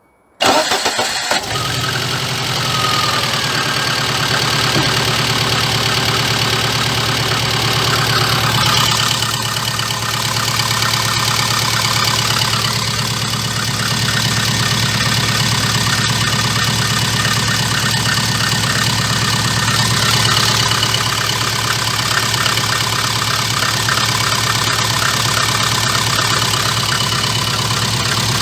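Lada VAZ-2114's four-cylinder petrol engine cranked and catching about half a second in, then idling steadily with no knock after the timing-belt pulley was refitted. A low exhaust drone comes from a leaking muffler.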